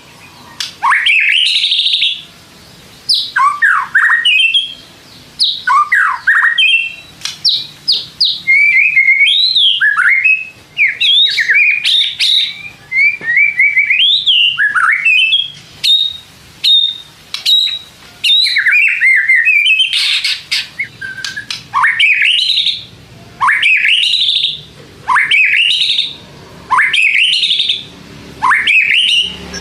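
White-rumped shama (murai batu) singing: loud whistled phrases of rising sweeps separated by short pauses, with a longer run of quick, varied notes in the middle, then repeated rising whistles about every two seconds near the end.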